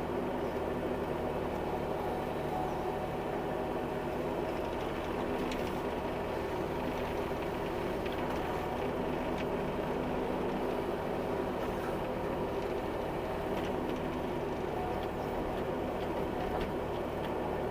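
Bobcat E26 mini excavator's diesel engine running steadily while digging, with a few faint clicks along the way.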